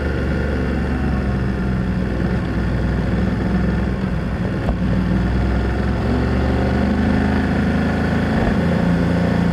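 BMW F800GS parallel-twin engine running at a fairly steady speed, its exhaust note dominating, with a slight firming of the note in the second half.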